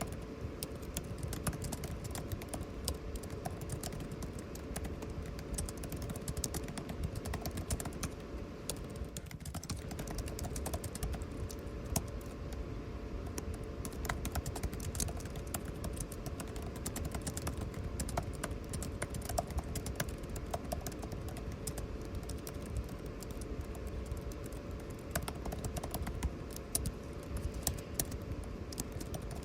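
Typing on a computer keyboard: irregular keystroke clicks, sometimes in quick runs, over the steady hum and hiss of an air conditioner.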